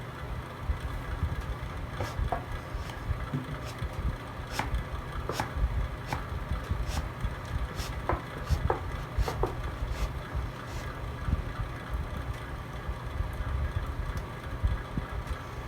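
Wood fire burning in a fireplace: a steady low rumble of flame with irregular sharp crackles and pops from the burning logs, most frequent in the middle.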